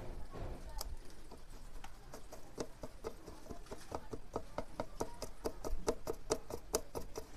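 A run of quick, light clicks, sparse at first and then about three to four a second from about two seconds in, with a little pitch to each one.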